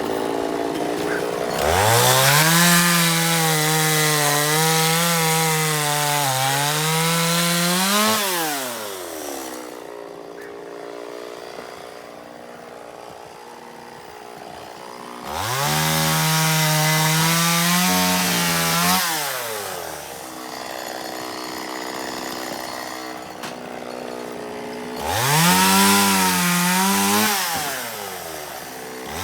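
Chainsaw revved up three times to cut through firewood logs. Each cut lasts a few seconds, with the pitch rising fast, holding steady under load and falling away, and the saw drops back to a lower idle in between.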